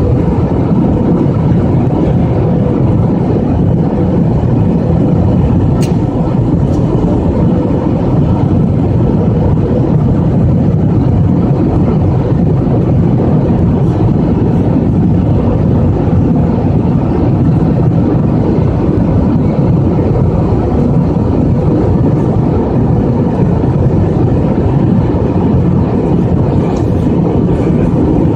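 Steady engine and airflow noise heard inside a jet airliner's cabin, a loud, even rumble with a faint steady hum through it and one small click about six seconds in.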